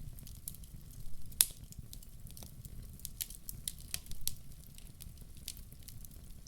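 Wood fire in a fireplace crackling, with irregular sharp pops over a low steady rumble; one louder pop about a second and a half in.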